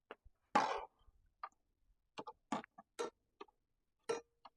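Irregular light clicks and taps of hand tools and small hardware being handled, with one louder short scrape about half a second in.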